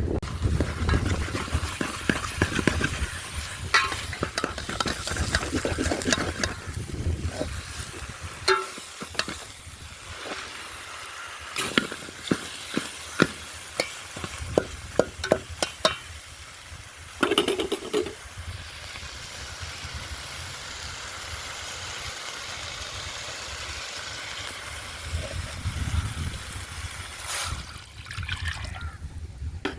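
A pot of chicken sizzling as it cooks in its own fat, with a spoon stirring and knocking against the pot in a run of sharp clicks midway through.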